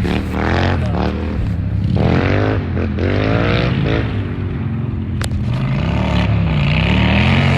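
Motorcycle engine revved hard three or four times in the first four seconds, each rev rising in pitch and falling away. It then runs lower with a wavering pitch, and there is a single sharp click about five seconds in.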